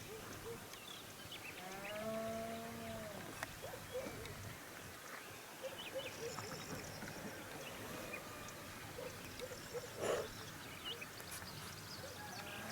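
Countryside dawn ambience of many small birds chirping, with one long drawn-out animal call about two seconds in and a short louder noise near the end.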